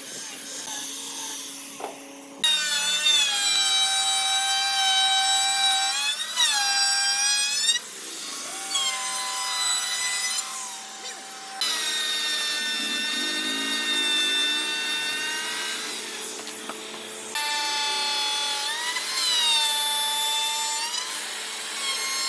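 Electric woodworking power tool cutting doussie wood. Its motor whine holds steady, dips in pitch when it bites under load, and breaks off and restarts abruptly a few times.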